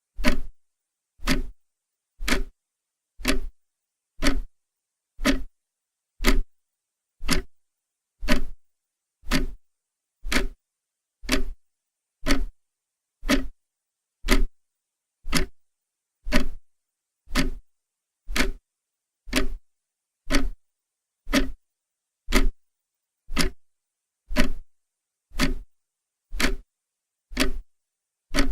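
Clock ticking steadily, about one sharp tick a second, with silence between the ticks.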